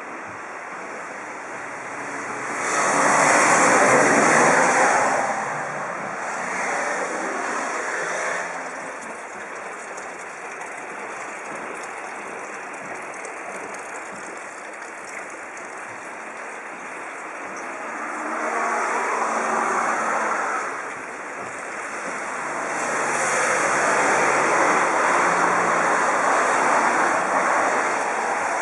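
Vehicles passing on a road: four swells of traffic noise, each rising and fading over a few seconds, the loudest about three seconds in and a long one near the end, over a steady background hiss.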